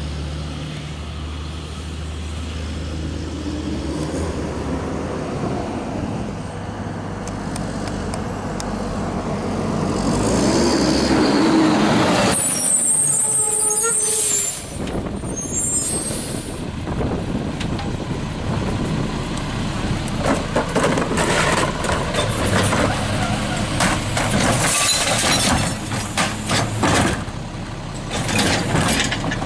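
Garbage truck running: a steady diesel engine hum, a hiss of the air brakes about twelve seconds in, then a string of sharp clanks and knocks.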